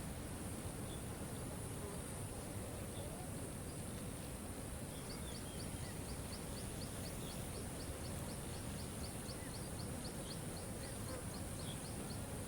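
Steady rushing water of a waterfall, with scattered short bird chirps. From about five seconds in, a rapid run of high ticking notes, about four a second, goes on for several seconds and stops near the end.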